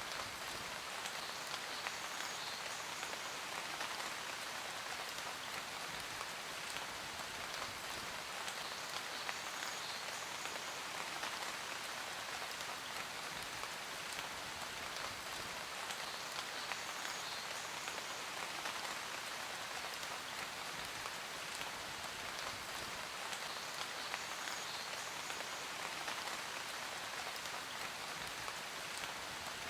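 Steady rainfall on a surface: an even hiss of rain with countless small drop ticks, unchanging throughout.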